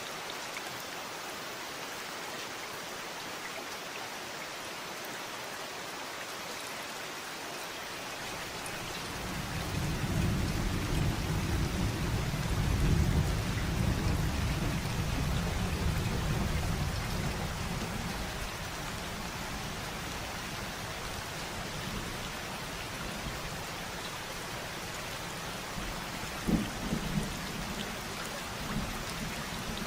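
Steady rain falling, with a long low roll of thunder that builds about eight seconds in, peaks, and fades away by about twenty seconds; a couple of short low rumbles near the end.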